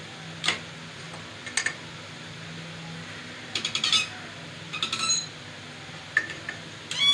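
Scattered bird chirps and several sharp clicks, a quick run of them midway, over a steady low hum.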